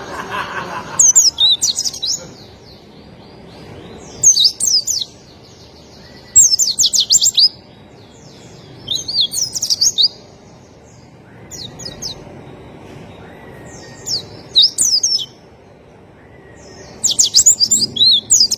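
White-eye (Zosterops) singing in short bouts of rapid, high chirping twitters, each about a second long, repeated roughly every two to three seconds.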